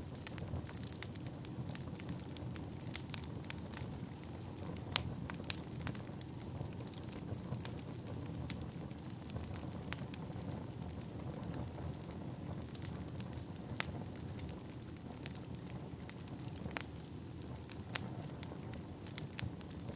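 Firewood burning: a low, steady rumble with scattered sharp crackles and pops at irregular intervals.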